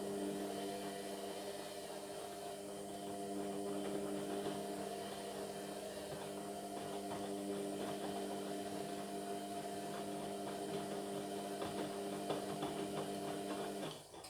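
Indesit MyTime washing machine's drum motor running with a steady hum while the drum tumbles a full load of towels in the wash, then stopping suddenly near the end.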